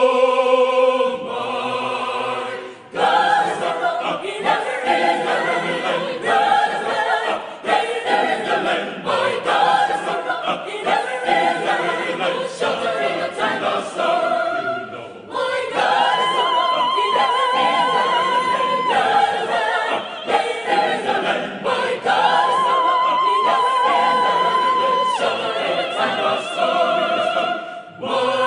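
Mixed adult choir singing in full harmony. Twice, a high voice holds a long note with vibrato above the choir.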